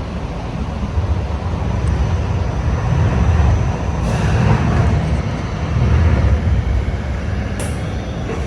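Hong Kong Light Rail Phase III train running, heard from inside the car: a steady low rumble of wheels and motors that swells and eases. There is a brief burst of hiss about four seconds in and a sharp click near the end.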